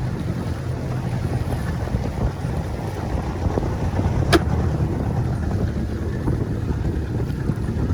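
A small boat under way: its motor runs steadily with a low rumble while wind buffets the microphone. There is a single sharp tap about four seconds in.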